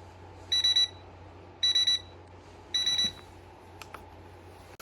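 Electronic alarm beeping: three short bursts of rapid high-pitched beeps, about a second apart, over a steady low hum.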